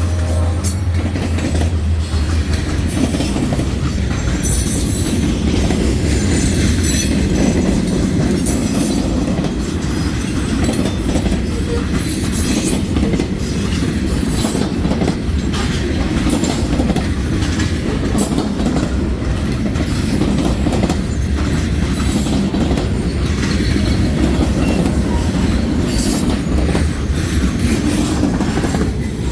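A De Queen & Eastern freight train rolling past with its cars clattering over the rail joints, a loud continuous rumble with short high-pitched wheel squeals. A low engine hum fades in the first few seconds.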